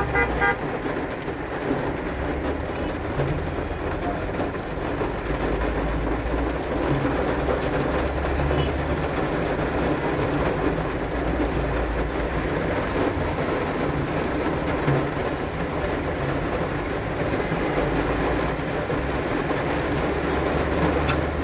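Heavy rain falling: a steady, dense noise, with a low rumble that swells and fades several times.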